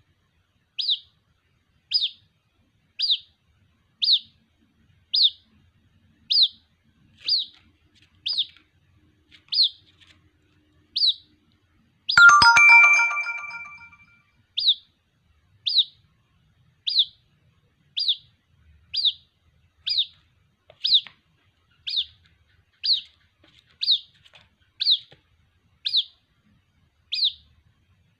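White-breasted waterhen chick giving a short, high, downward-sweeping peep about once a second, calling for its mother. About twelve seconds in, a loud ringing electronic tone like a phone ringtone cuts in and fades over about two seconds.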